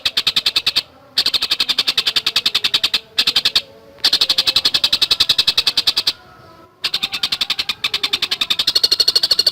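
Tengkek buto bird calling in a very fast, tight run of sharp, high notes, more than a dozen a second. The run breaks off three times: briefly about a second in, again around three and a half seconds, and for over half a second past the six-second mark.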